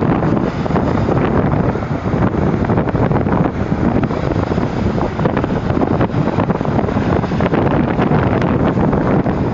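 Strong storm wind buffeting the microphone in a loud, continuous rumble, with storm waves washing against the shore underneath.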